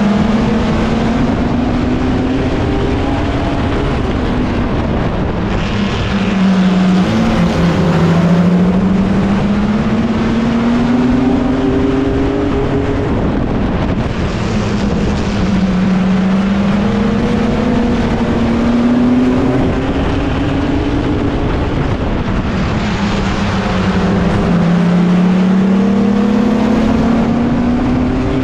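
Mini stock pickup race truck's engine lapping a short oval, heard from a roof-mounted camera with wind rush. The engine pitch climbs for several seconds down each straight and drops sharply as the driver lifts into the turns, three times, with other trucks' engines mixed in.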